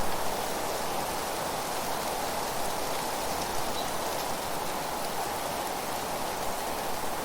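Wind rustling through trees and fallen leaves as a steady, even hiss.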